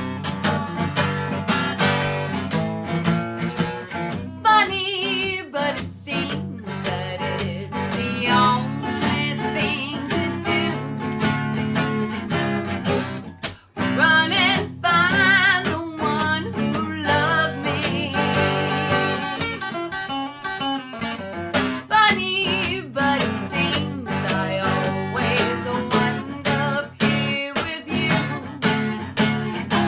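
Strummed acoustic guitar accompanying a song, with a wavering melody line above the chords and a brief break about halfway through.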